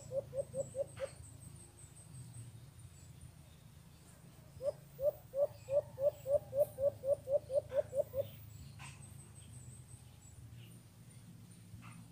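A caged decoy bird calling: two runs of quick, evenly paced low hooting notes, about five a second. The first run ends about a second in, and the second runs from about four and a half to eight seconds in.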